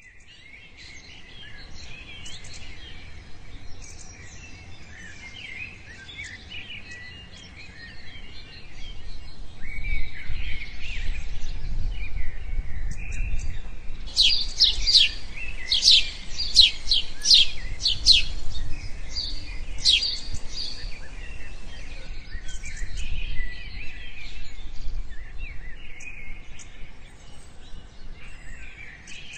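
Many birds calling and chirping at once in a chorus, with a louder run of sharp, quickly repeated notes about halfway through. A low rumble sits underneath from about a third of the way in.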